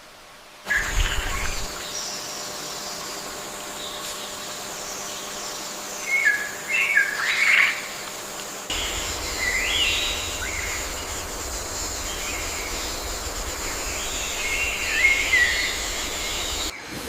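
Birds chirping in short bursts of calls, heard a few times over a steady outdoor background. The background changes abruptly about a second in and again about halfway through.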